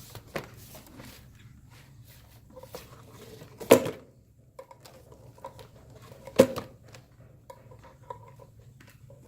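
Handling noises of small hard objects: two sharp knocks, a little under four seconds in and again about three seconds later, among light clicks and rustles.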